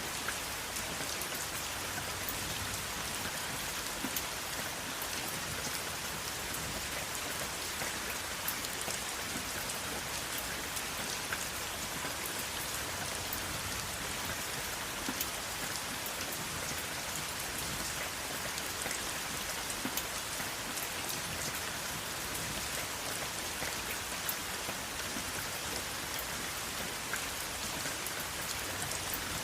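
Steady rain falling, an even hiss with many small drop ticks spattering on a surface; no thunder.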